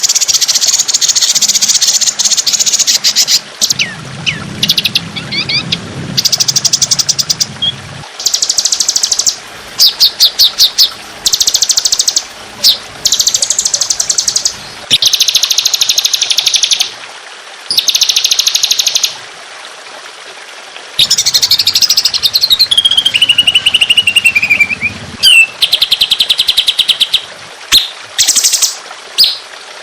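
Songbird singing fast, dense trills of rapid-fire notes in high-pitched bursts of one to two seconds with short gaps, with a falling whistled phrase about two-thirds of the way through. This is the 'tembakan' (rapid-fire) song style used as tutor song for songbirds.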